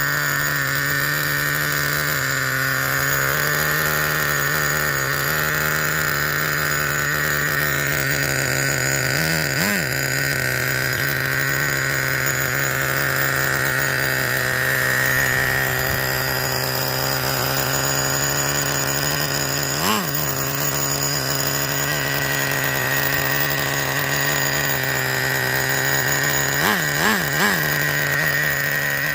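Traxxas Revo 3.3 RC truck's two-stroke nitro engine idling steadily while it warms up from cold. Short throttle blips lift the pitch about ten seconds in, again about twenty seconds in, and twice in quick succession near the end.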